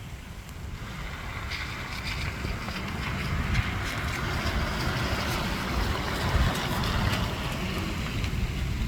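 Wind buffeting the microphone during a rain and ice storm, with a steady hiss of falling rain and sleet that grows louder after the first second or so. Small scattered ticks run through it.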